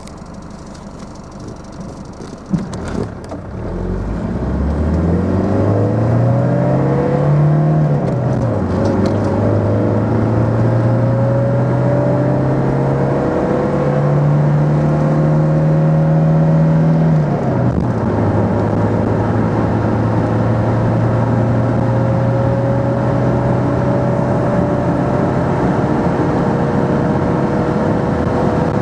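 Mercedes-Benz W123 diesel engine accelerating hard from a standstill, after a short knock about two and a half seconds in. The revs climb, fall at a gear change about eight seconds in, climb again more slowly, fall at a second gear change a little past halfway, and then rise slowly and steadily.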